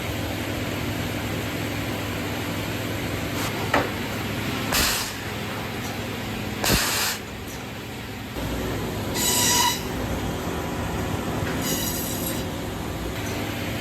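Machinery running with a steady low hum. It is broken by two short loud hisses about five and seven seconds in, then two brief high-pitched squeals, the first with a clear whistle-like tone.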